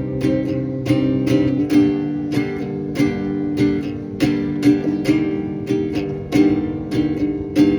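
Instrumental music: acoustic guitar strumming chords in a steady rhythm, about two strums a second.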